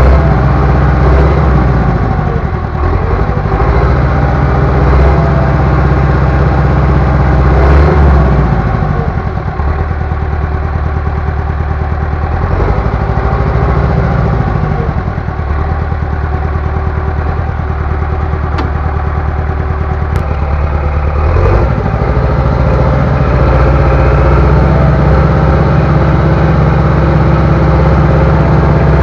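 Bulldozer's diesel engine running steadily under the operator, its revs rising and falling a few times.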